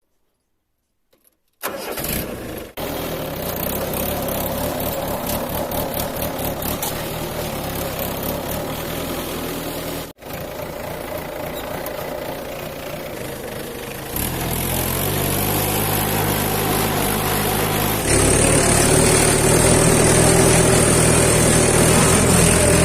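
Mahindra 50 HP tractor's diesel engine running steadily after a second and a half of near silence. The sound drops out abruptly twice and steps up louder twice, the last time in the final few seconds.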